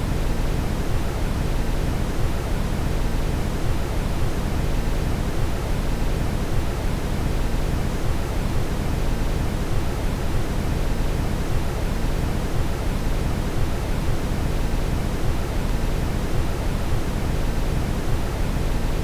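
Steady brown noise: an even, deep rushing hiss with most of its weight in the low end and no changes or events.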